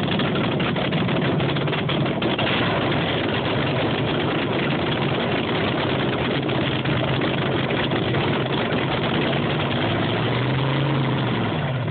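Injected small-block front-engine dragster cackling at idle on a little nitro: loud, steady and rough. Near the end the engine note briefly rises and falls.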